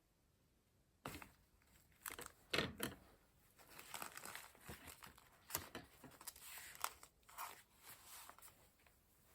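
Paper being handled for a junk journal: irregular rustling and crinkling that starts about a second in, with its loudest crackle around two and a half seconds in.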